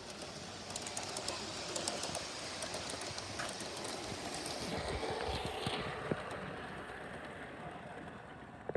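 A model railway train running along its track, a clattering rattle with quick clicks from the wheels, growing louder as it comes by and then fading away.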